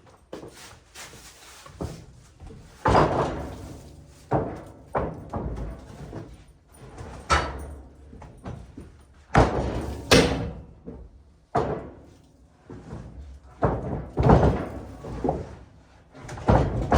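Freshly sawn pine boards being handled and set down: an irregular series of about a dozen heavy thuds and knocks, some with a short ringing tail.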